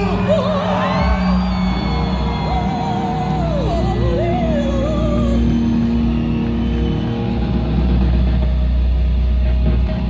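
Rock band playing live in a large hall: a high voice sings a wavering, drawn-out line over sustained bass and held notes, with shouts from the crowd.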